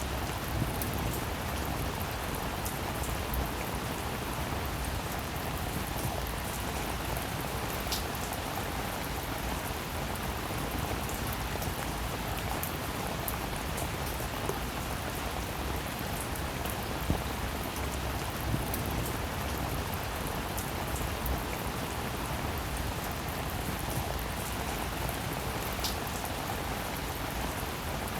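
Steady rainfall: a dense, even hiss with scattered sharper drop hits.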